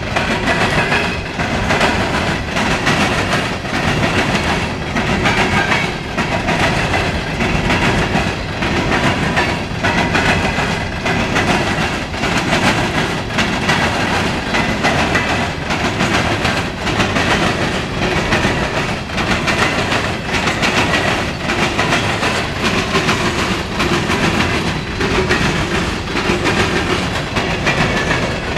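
Loaded coal train's open-top hopper cars rolling past at speed. Steady wheel-and-rail rumble, with regular clacks as the wheels cross rail joints.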